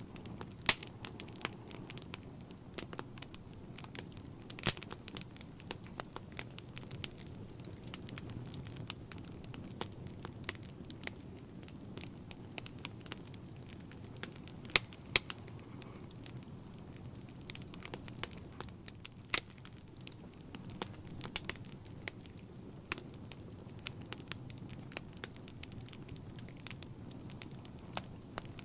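Fire burning in a fireplace: irregular sharp crackles and pops, several a second, over a low steady rumble of the flames, with a few louder pops standing out.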